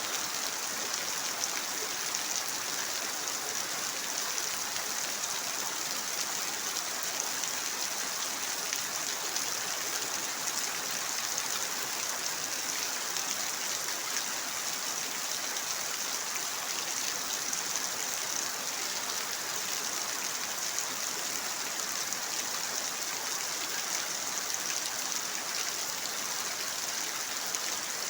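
Steady rainfall: a dense, even hiss of falling rain that holds at one level throughout.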